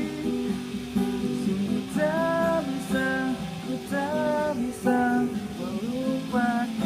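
Acoustic guitar strummed in steady chords, with a voice singing a melody over it from about two seconds in.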